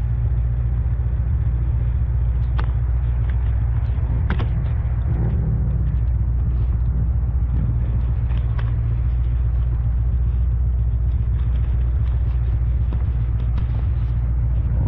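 Heavy wind buffeting on the camera microphone over the low road and engine rumble of a C3 Corvette on the move, with a few scattered sharp ticks.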